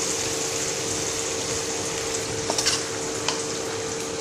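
Small fish frying in oil in a nonstick pan, a steady sizzle with a steady hum underneath. A few light clinks of a spoon on a steel bowl come between two and three and a half seconds in.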